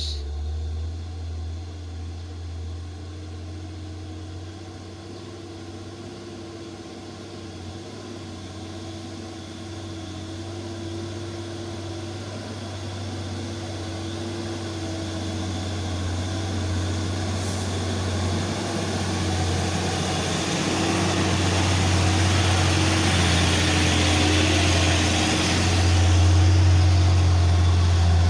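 Diesel engine of a loaded coal truck labouring up a long grade, a steady low drone that grows gradually louder as the truck approaches, with rising road and engine noise near the end.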